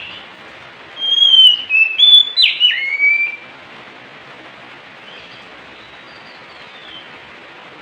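Oriental magpie-robin (kacer) singing: a loud burst of clear whistled notes, several sliding down in pitch, lasting about two seconds from a second in, with fainter notes later, over a steady hiss.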